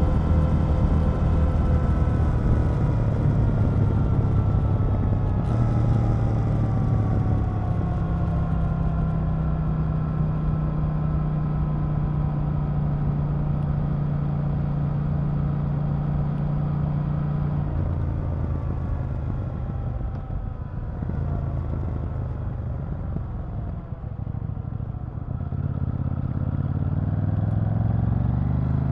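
KTM 890 Duke R's parallel-twin engine heard on board while riding, running at a steady speed with a change in engine note at about 5 seconds and again at about 18 seconds. It eases off in the low twenties, then the pitch rises under acceleration near the end.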